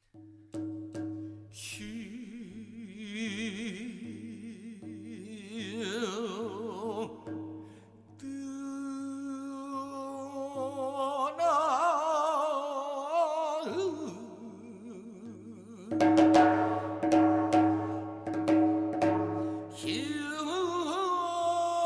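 Korean gueum: a voice sings wordless, sustained syllables with a wide, wavering vibrato over a steady low drone. About two-thirds of the way in, a run of sharp percussive strokes joins as the singing grows louder.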